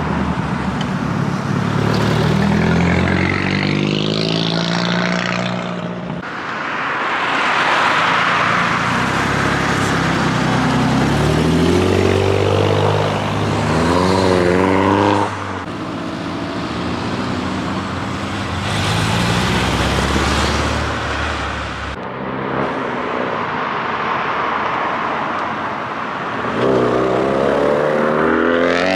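Car engines accelerating past one after another, revving up in rising pulls, with several abrupt switches between different cars.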